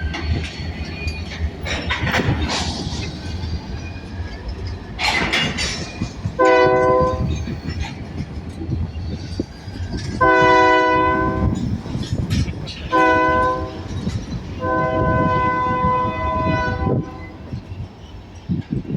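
Diesel freight locomotive air horn sounding four blasts, the third short and the last the longest, over the steady low rumble of the locomotives and train.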